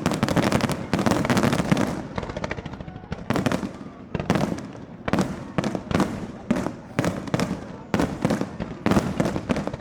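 Fireworks display: a dense volley of bangs for the first couple of seconds, then separate bangs about two a second, each trailing off.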